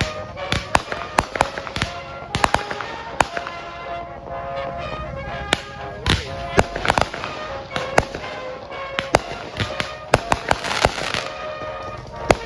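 Consumer fireworks going off in quick, irregular succession: dozens of sharp bangs and crackling reports. Music with a steady beat plays underneath.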